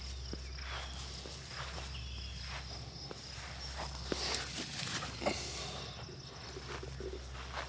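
Footsteps walking on a path, uneven steps about two a second, over a steady low rumble.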